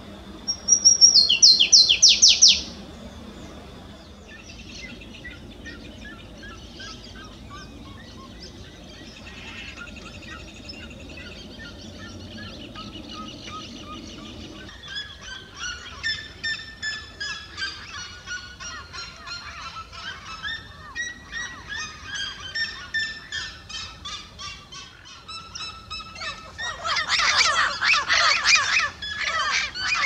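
A small warbler sings a quick, loud run of high downward-slurred notes about a second in, followed by fainter bird song. About halfway through, a red-legged seriema starts a long series of loud yelping calls, about two a second. The calls build to a loud, dense outburst near the end.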